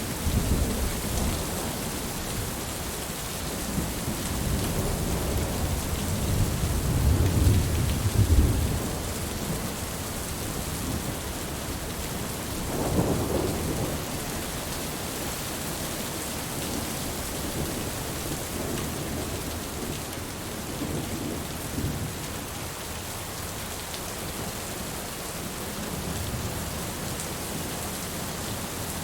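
Heavy rain falling steadily, with rolling thunder. The low rumbles are strongest in the first nine seconds, another rolls through about thirteen seconds in, and later ones are fainter.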